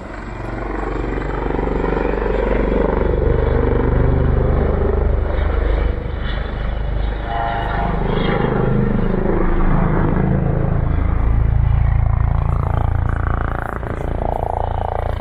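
Helicopter running: a loud, steady rumble of engine and rotor, with an abrupt change about six seconds in.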